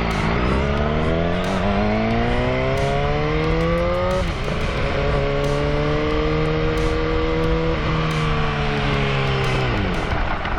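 Motorcycle engine pulling hard, revs climbing and then dropping with an upshift about four seconds in, climbing again to a second shift near eight seconds, then revs falling as the throttle eases off near the end, with wind rush.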